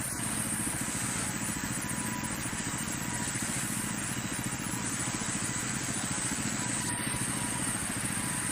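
Sawmill machinery running steadily, a continuous engine-like drone with a fast, even pulse.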